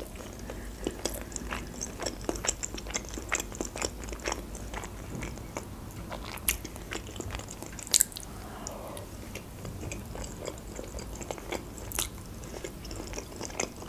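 Close-miked chewing of steamed manti dumplings: a steady run of wet, sticky mouth clicks and smacks, with a few louder clicks about 8 and 12 seconds in.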